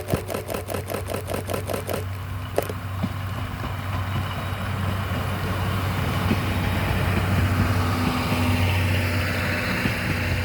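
C11 steam locomotive passing: its exhaust chuffs at about five beats a second for the first two seconds, then the steady rumble and rail noise of the coaches rolling by, with a sharp wheel click about two and a half seconds in.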